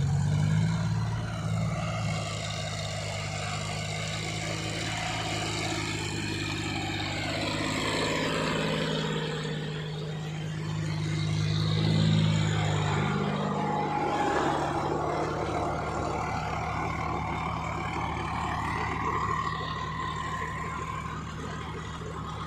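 Tractor diesel engine running steadily, its low engine note weakening a little over halfway through.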